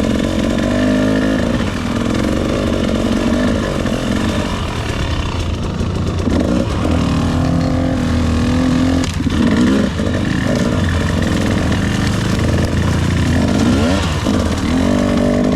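Two-stroke dirt bike engine running under throttle, its pitch rising and falling as the rider opens and closes the throttle, with a short drop-off about nine seconds in.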